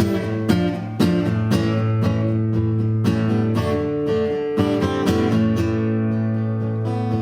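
Acoustic guitar strummed in a steady rhythm, about two strums a second, over a sustained low note: the instrumental intro of a live rock song before the vocals come in.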